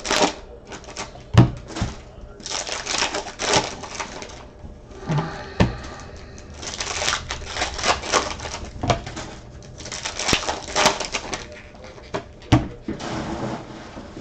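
Trading cards and foil pack wrappers being handled: repeated bursts of rustling and shuffling with sharp taps and clicks, and a few louder knocks on the table.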